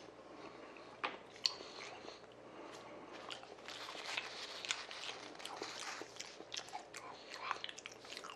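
Close-miked chewing of a mouthful of thick-cut raw salmon: wet mouth clicks and smacks, busier in the second half, with two sharp clicks about a second in.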